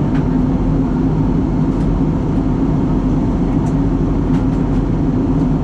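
Steady cabin drone of an ATR 72 turboprop airliner in descent: engine and propeller hum with airflow noise, holding an even pitch and level.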